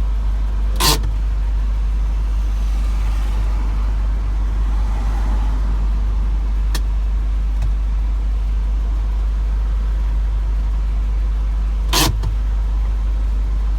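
Isuzu box truck idling with a steady low rumble, broken by two sharp knocks, one about a second in and one near the end, and a couple of faint clicks between.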